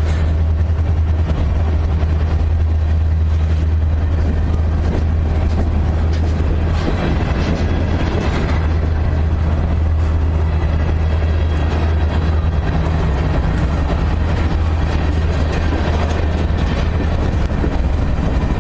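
Diesel locomotive engine running with a steady low drone, under the rumble and rush of a train going by.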